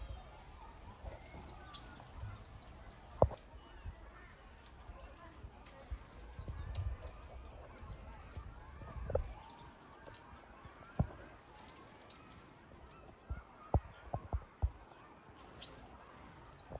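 Small aviary birds chirping: many quick, high, short chirps overlap throughout. A few sharp knocks break in, the loudest about three seconds in and several more in the second half.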